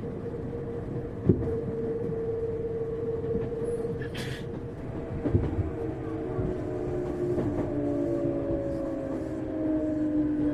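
Tokyu 1000 series electric train running, heard from inside the car: wheel rumble under the whine of the traction motors. The whine holds one steady tone at first, then splits into several tones that fall slightly in pitch. There is a sharp knock about a second in and a brief hiss about four seconds in.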